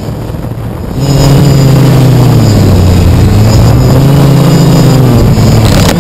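FPV drone's motors and propellers running loud, starting abruptly about a second in, with the pitch dipping and rising again several times as the throttle changes.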